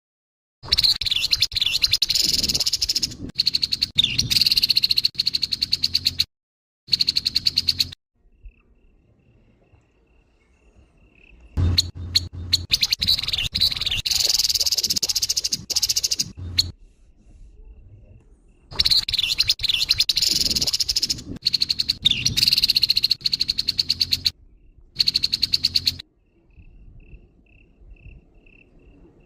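Grey-headed babbler (tepus kepala abu) giving its harsh call: a rapid rattling chatter in bursts of several seconds, about five of them with pauses between.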